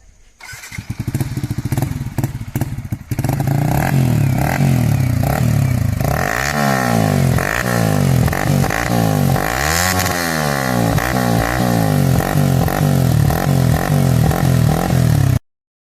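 Yamaha R15 V3's single-cylinder engine through an Akrapovic slip-on exhaust, starting about half a second in and running unevenly before settling to a steady idle around three seconds in. From about six seconds on, the throttle is blipped again and again, the exhaust note rising and falling with each rev. The sound cuts off suddenly near the end.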